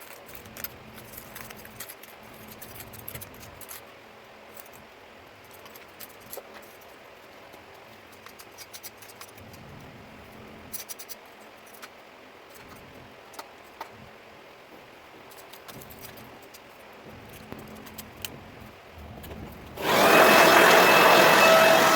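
Faint scattered clicks and scraping of hand tools working debris out of a concrete expansion joint. Near the end a vacuum motor switches on abruptly and runs loud and steady with a whine, sucking the joint out.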